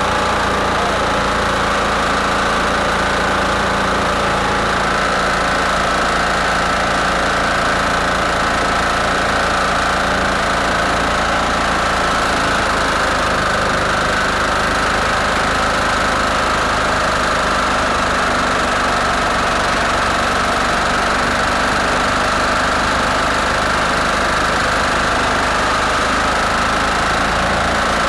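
Garden tractor engine running steadily and close by, holding an even speed with no revving.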